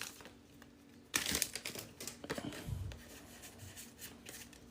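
Foil Pokémon booster pack wrapper crinkling in the hand, in faint short rustles: one burst about a second in, then a few smaller ones.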